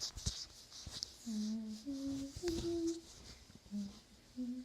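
A girl humming a short tune to herself: a handful of held notes stepping up and down in pitch, with a soft rustling hiss in the first second or so.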